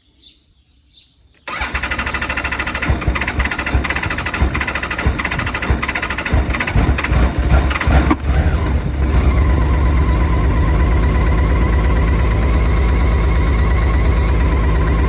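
BMW K1600GTL's inline-six engine being started: the starter cranks with uneven surging for about six seconds before the engine catches and settles into a steady idle. The long crank is the hard-starting problem, with the battery fully charged from a tender.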